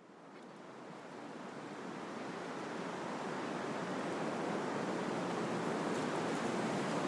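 Wind blowing through trees, a steady rushing of leaves and branches that fades in from silence and grows louder over the first few seconds.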